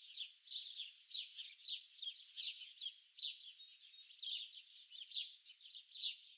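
Small songbirds chirping and twittering together, a dense run of quick, high-pitched notes that mostly slide downward.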